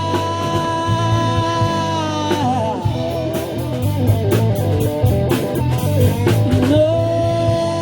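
Rock band playing: a long held note gives way about two and a half seconds in to a run of quick, bending notes over bass and drums. A held note returns near the end.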